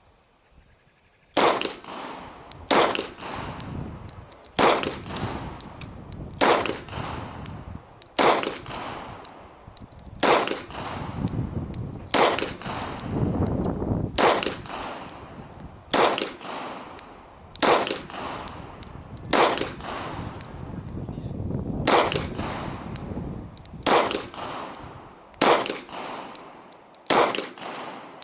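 Glock 22 Gen4 .40 S&W pistol firing in slow, steady single shots, about one every second and a half to two seconds, some sixteen shots, each a sharp report with a short ringing tail.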